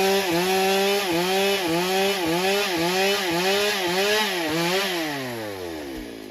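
Chainsaw running at high speed in a cut, its engine note dipping about twice a second under load. Near the end the throttle comes off and the engine note falls away steadily.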